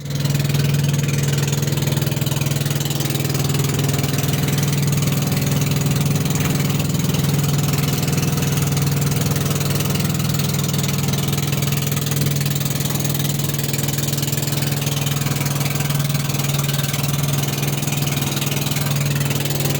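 Boat engine running steadily at a constant speed, a continuous low hum with an even hiss over it.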